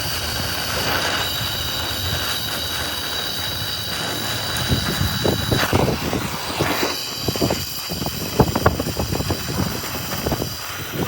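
Metalworking shop noise: a machine runs with a steady high whine, and from about halfway on, irregular sharp knocks ring out, like metal striking metal.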